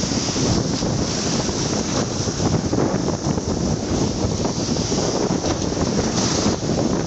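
Heavy wind buffeting the microphone over the steady running rumble of a moving train.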